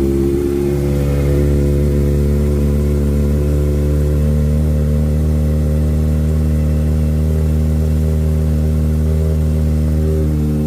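Kawasaki ZX-4RR's 399 cc inline-four engine running at idle after a cold start, holding a steady pitch after a slight shift about half a second in.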